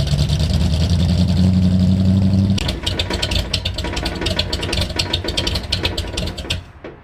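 Classic V8 car engine running at a steady fast idle. About two and a half seconds in it drops to a lower, rougher running with rapid ticking, then stops abruptly near the end.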